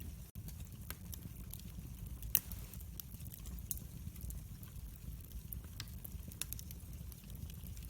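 Wood fire in a fireplace crackling: a steady low rumble of the flames with scattered small pops and snaps, one louder snap about two and a half seconds in.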